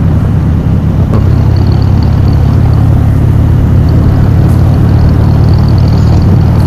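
Motorcycle engine running steadily at cruising speed on the open road.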